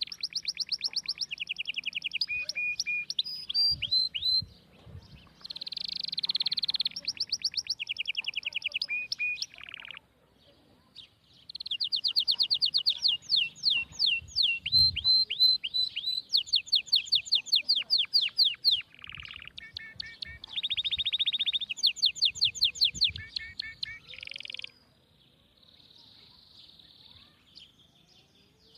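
A songbird singing in phrases of rapid trills and quick falling whistles, with short pauses between phrases; the song stops about 25 seconds in.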